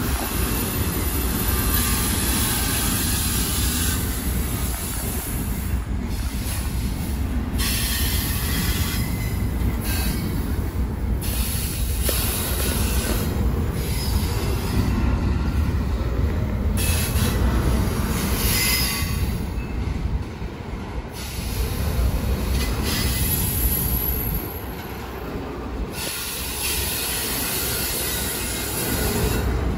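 Freight train rolling past with a steady low rumble, and the wheels squealing on and off over it.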